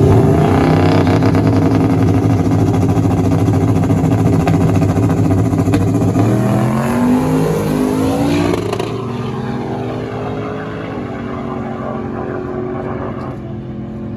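Truck engine at full throttle, accelerating hard from the line. Its pitch climbs, then steps down twice as it shifts gears, and it grows fainter as the truck pulls away.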